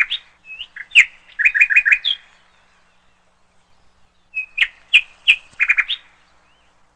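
A bird singing: two phrases of sharp high chirps and short whistled notes, each ending in a quick run of four or five notes and a rising note, with a quiet pause of about two seconds between them.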